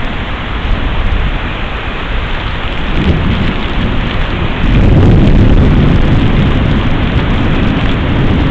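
Steady rain with thunder: a low rumble builds about three seconds in, then swells much louder a couple of seconds later and keeps rolling.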